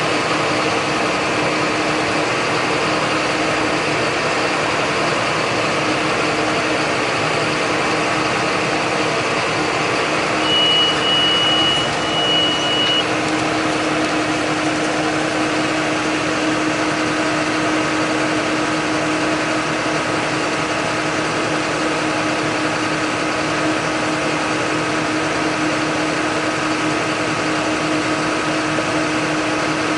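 John Deere 8100 tractor's six-cylinder diesel running steadily under load while pulling a John Deere 466 baler. About ten seconds in, a high electronic beep sounds twice in quick succession, lasting about two and a half seconds in all.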